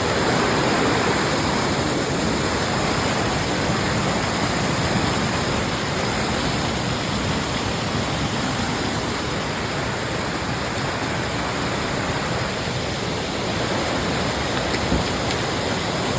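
Waterfall: loud, steady rushing of falling water.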